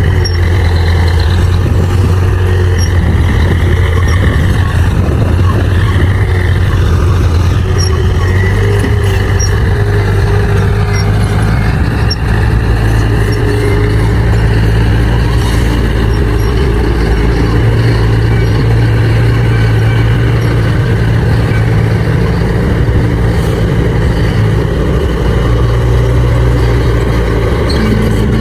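Bulldozer's diesel engine running steadily under load, a loud constant low drone, with a faint high whine above it that rises and falls.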